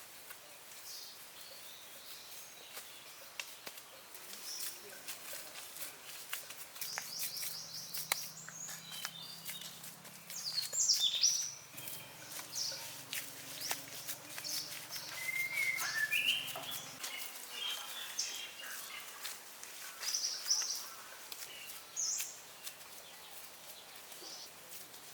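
Small birds chirping and calling on and off, with many small clicks and taps throughout.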